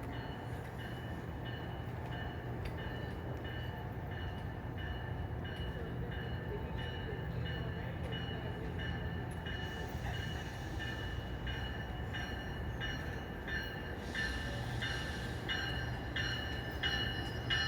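NJ Transit commuter train running past on the rails, a steady low rumble with a regular clicking that comes quicker near the end.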